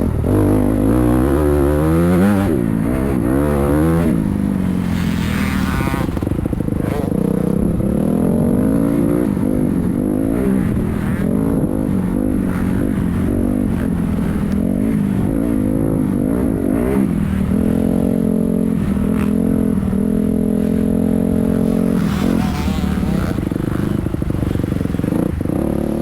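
Motocross bike engine revving up and down repeatedly through gear changes, then holding steadier revs for several seconds.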